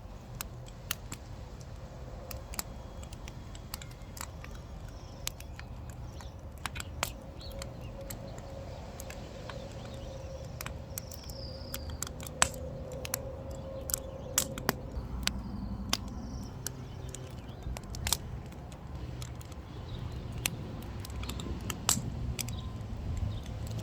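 Wood fire crackling: irregular sharp pops and snaps over a low steady rumble, with a faint steady hum in the middle of the stretch and a few faint bird chirps.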